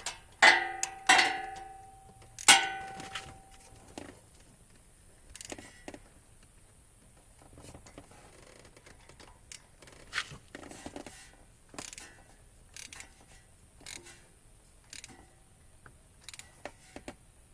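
Hand tools on metal while the starter motor's bracket screws are tightened: three sharp, ringing metallic clinks in the first three seconds, then scattered light clicks and knocks from the tool working the screws.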